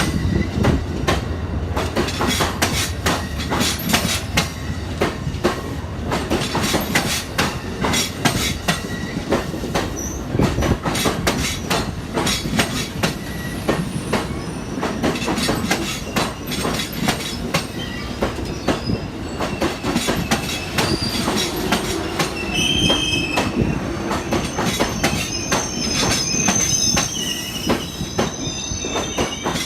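Train cars rolling past on the track, the wheels clicking rapidly and steadily over the rails. High-pitched wheel squeal sets in during the last several seconds.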